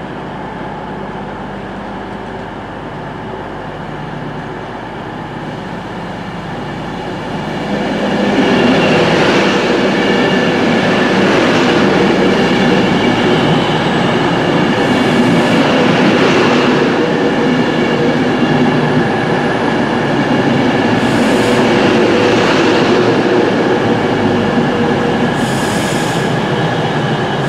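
Avanti West Coast Class 390 Pendolino electric train pulling into the platform. It grows louder as it comes alongside about eight seconds in, then runs on steadily with squealing wheels and brakes as it slows.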